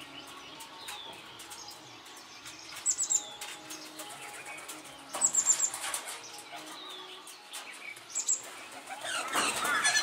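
Birds chirping, short high notes in quick clusters about three, five and eight seconds in. Near the end comes a louder flurry of wing flaps mixed with calls as a blue whistling thrush takes off.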